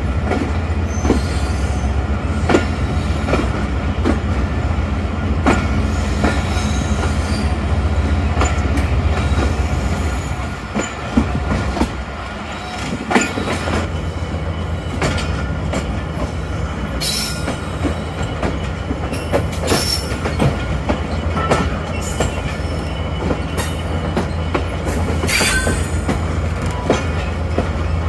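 Passenger train pulling out of a station, heard on board: a steady low drone from the diesel locomotive, wheels clicking irregularly over rail joints and points, and a few short high wheel squeals in the second half.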